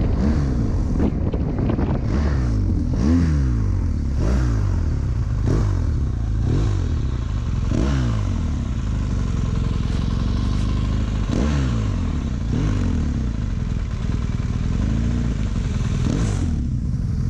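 BMW R 1200 GS Adventure's boxer-twin engine ridden at low speed, its revs rising and falling again and again with the throttle.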